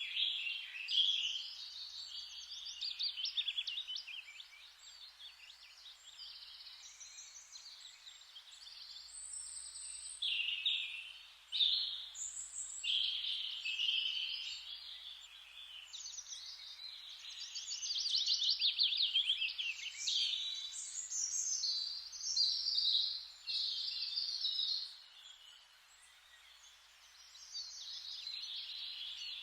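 Forest birdsong: many songbirds singing and chirping over one another in a dense chorus of high trills and chirps, over a faint steady hiss. The chorus eases off briefly near the end.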